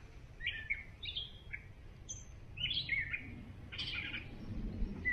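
Songbird chirping in short phrases, repeated about once a second, over a faint low rumble.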